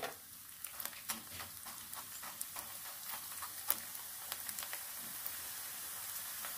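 Sticks of sun-dried rice-flour dough (homemade kurkure) deep-frying in hot oil in a pan: a sizzle full of scattered crackles and pops that grows more even and a little louder toward the end.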